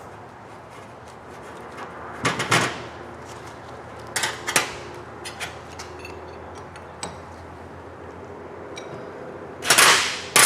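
Tools and parts being handled on a workbench: short knocks and rattling clatter, two pairs of knocks early on and a louder clatter near the end, with a few light ticks between.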